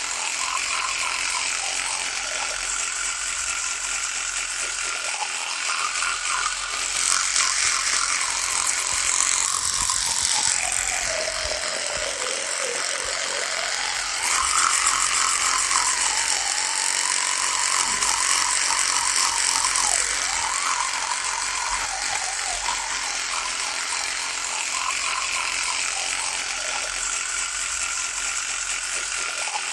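Electric toothbrush running with a steady high buzz; around the middle its pitch sinks and then climbs back up.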